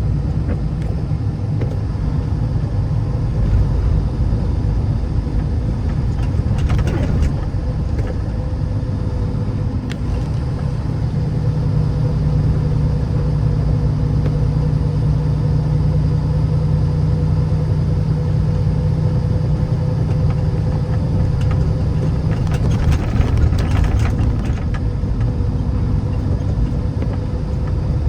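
Road vehicle driving: a steady low rumble of engine and tyre noise, with short hissing rises about seven seconds in and again near twenty-three seconds.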